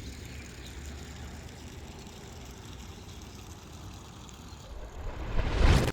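Wind buffeting the microphone: a rough low rumble that swells into a loud gust about five seconds in, then cuts off suddenly.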